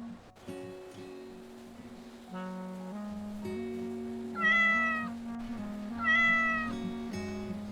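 A cat meowing twice, each meow under a second long and about a second and a half apart, over steady background music.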